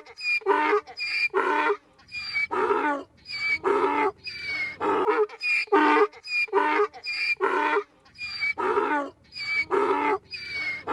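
A farm animal calling over and over: loud, short pitched calls in quick groups of two or three with brief gaps between them.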